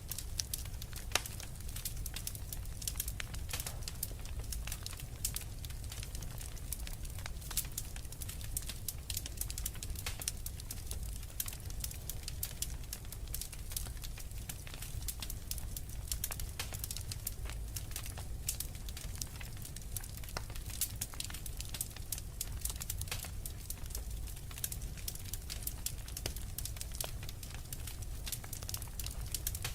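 Wood fire crackling steadily: a dense, irregular run of sharp pops and snaps over a low rumble, with one louder pop about a second in.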